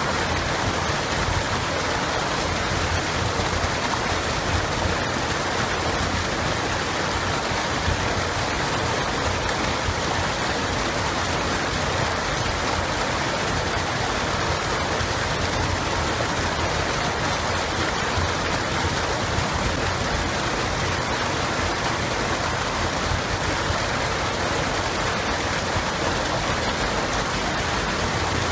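Running water flowing, a steady, unbroken rush.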